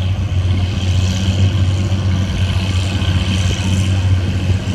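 Antique farm tractor engine running at a steady speed with a low, even drone.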